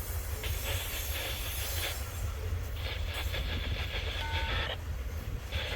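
Freight train cars rolling past: a steady low rumble, with three runs of rhythmic wheel clatter as the wheels pass over the rail joints.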